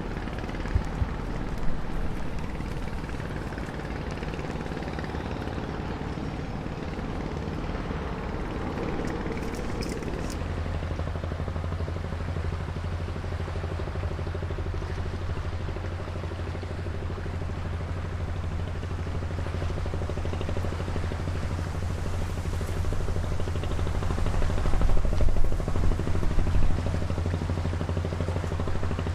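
Engine of a river sand-transport boat running with a steady low drone. About ten seconds in, an even low hum comes in more strongly and holds. A few louder knocks come near the end.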